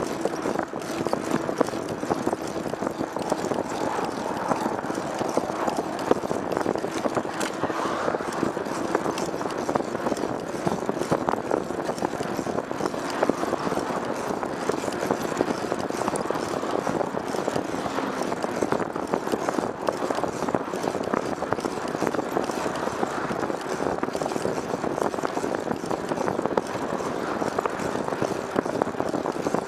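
Steady noise of a vehicle on the move, with a constant low hum and many small clicks and rattles throughout.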